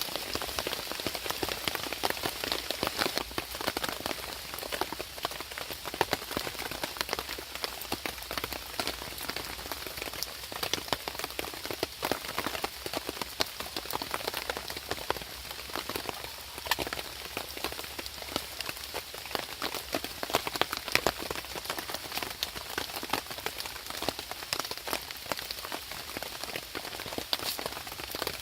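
Steady rain falling, with a dense, irregular patter of drops hitting surfaces.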